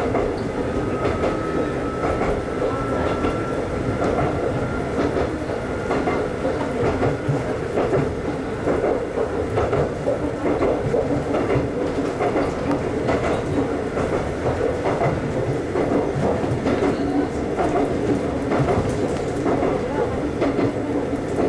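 Konan Railway 7000 series electric train running along the track, heard from the front cab, with the wheels clicking over the rails. A thin whine rises slightly in pitch over the first few seconds.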